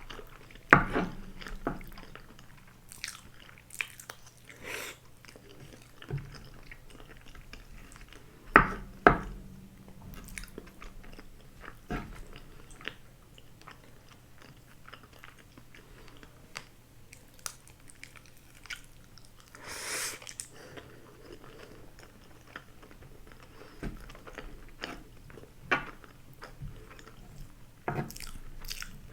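Close-up eating sounds of a grilled eel rice bowl: chewing and biting with scattered crunches and wet clicks, the loudest about a second in and again near nine seconds, and a longer rustling crunch about two-thirds of the way through.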